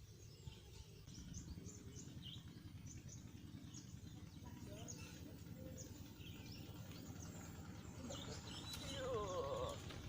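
Small birds chirping, many short high calls scattered throughout, over a low steady rumble. Near the end a louder wavering sound rises over the chirps.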